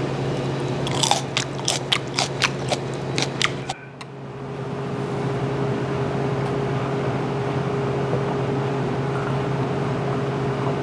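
A raw green chili pepper crunched in close bites right at a handheld microphone, about nine crisp crunches over two and a half seconds. After that, only a steady low hum.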